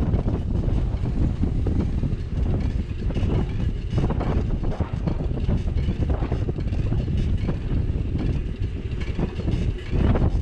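Low, uneven rumble of wind buffeting a bike-mounted action camera's microphone while cycling, mixed with road and street noise.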